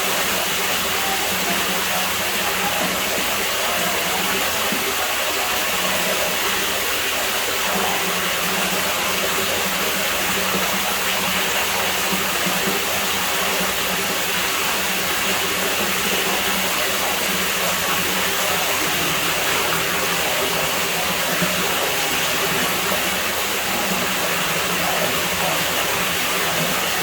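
Water running steadily at a pool villa: a constant, unbroken rush of flowing water.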